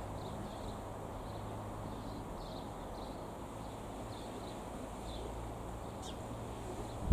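Small birds chirping in short repeated calls over steady outdoor background noise with a low hum.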